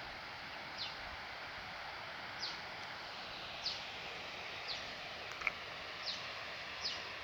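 A forest bird repeating a short, high note that falls in pitch, about once a second, over a steady forest hiss.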